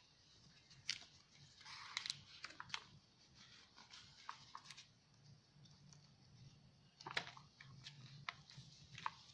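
Faint rustling, light taps and scattered clicks of paper and card being handled, with sharper ticks about a second in and again around seven seconds.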